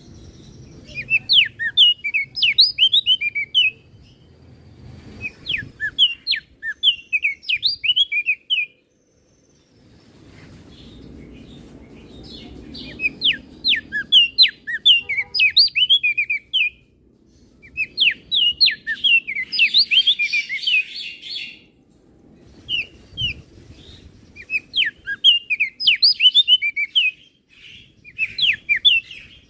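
Opior jambul (crested white-eye) singing: phrases of rapid, sharp chirping notes, each lasting two or three seconds, with short pauses between them.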